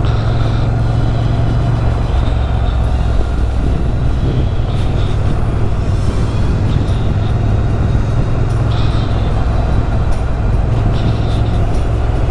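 Motorcycle engine running steadily while under way, with wind rushing over the microphone.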